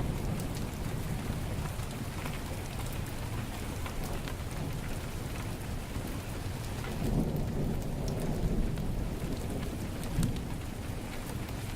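Heavy rain falling steadily, with a low rumble that swells about seven seconds in and fades by ten. Scattered sharp crackles from a wood fire in a fireplace run through it.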